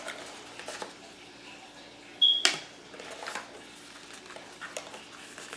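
Phone box and packaging handled: light cardboard rustles and small clicks, with a brief high squeak and then one sharp click about two and a half seconds in.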